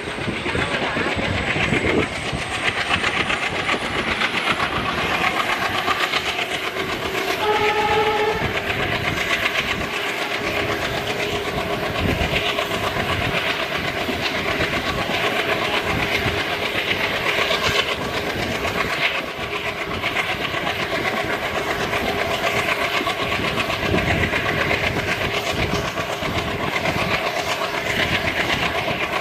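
Passenger coach running at speed, heard from its open doorway: steady wheel clatter over the rail joints with a strong rush of wind. A short horn note sounds about seven seconds in.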